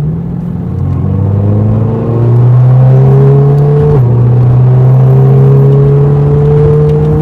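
Audi R8's naturally aspirated V10 accelerating: its note climbs steadily, drops suddenly about four seconds in as the seven-speed dual-clutch gearbox shifts up, then climbs again and shifts up once more near the end.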